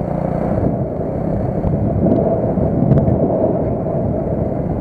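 Small moped engine running steadily under way, mixed with wind rumble on the microphone.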